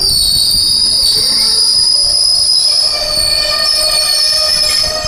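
Train wheels squealing against the rails: a high, steady screech in several tones, joined by a lower squeal from about halfway through.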